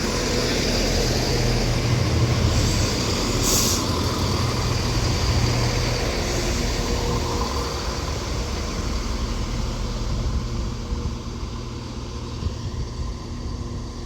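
Class 170 Turbostar diesel multiple unit pulling into the platform, its underfloor diesel engines running and the train rumbling over the rails as it slows. A short hiss of air comes about three and a half seconds in, and the sound gradually eases toward the end.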